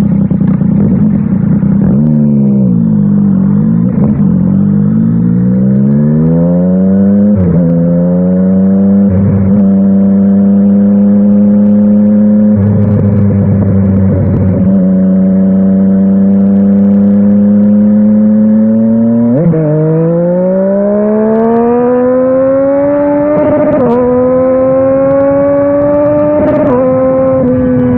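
Yamaha Tracer 900 GT's three-cylinder engine through a WR Authentic aftermarket exhaust, ridden on the road. The engine note falls as the bike slows, then rises through a few quick upshifts and holds a steady cruise. About two-thirds of the way in it accelerates again, with two more shifts near the end.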